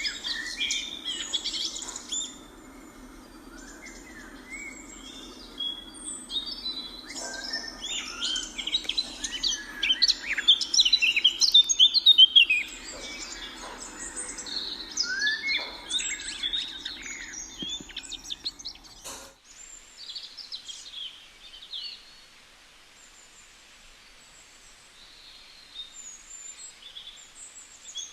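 A flock of many birds chirping and calling over one another in a dense chorus, with a steady low hum underneath, loudest about a third of the way in. Two-thirds of the way through, the sound changes abruptly: the hum stops and only sparser, fainter calls remain.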